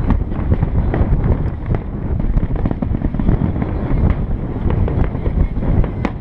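Aerial fireworks going off: a dense run of crackling pops over a continuous low rumble of bursts.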